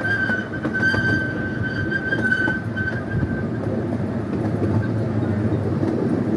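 Scenic railway ride train rolling along its track, a continuous rumble of the cars with faint clicks. A steady high squeal, typical of wheels on a curve, carries on from the start and fades out about three and a half seconds in.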